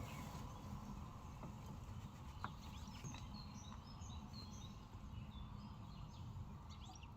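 Faint outdoor ambience: a low steady rumble, with birds chirping briefly several times in the middle.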